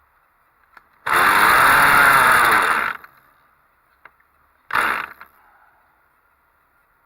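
OTM-08 "Kolibri" 0.78 cc model diesel engine catching on a start attempt. It fires and runs for about two seconds, its pitch rising and then falling, before dying out. About two seconds later it fires again in a short half-second burst.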